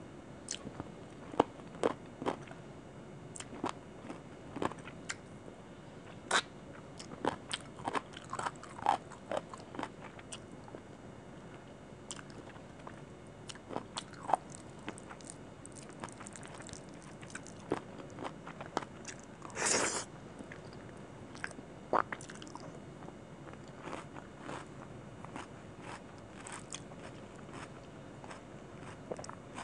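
Close-miked eating sounds from chicken curry and rice eaten by hand: chewing, scattered wet smacks and clicks of the mouth. There is one louder, longer wet sound about two-thirds of the way through.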